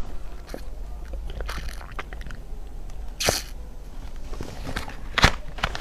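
Close-up eating sounds: a person biting into and chewing crunchy food, with scattered small crackles and two louder crunches, the first about three seconds in and the second near the end.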